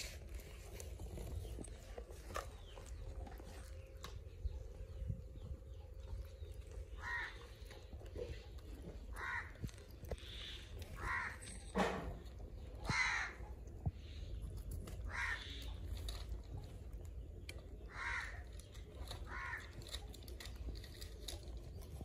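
A bird calling outdoors in short, separate calls, about seven of them a second or two apart, starting a few seconds in. There is one sharp click about halfway through.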